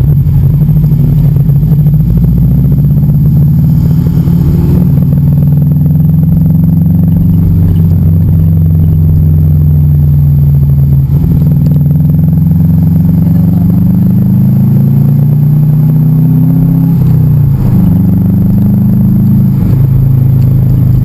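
Car engine heard from inside the Subaru Forester SF5's cabin, running loud and steady in traffic. Its revs rise and fall slowly, with a sudden drop about seventeen seconds in, as at a gear change.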